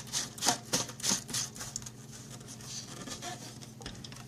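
Plastic filter cap being screwed back onto a humidifier's water tank: a run of short scraping clicks, about three a second, through the first second and a half, then fainter handling.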